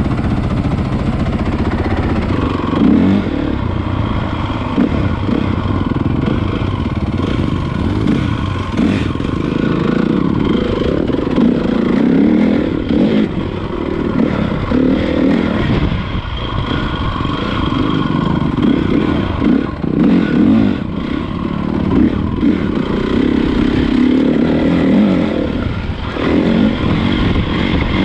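Honda CRF450 motocross bike's single-cylinder four-stroke engine running hard, its sound swelling and easing every few seconds as the throttle is worked on and off.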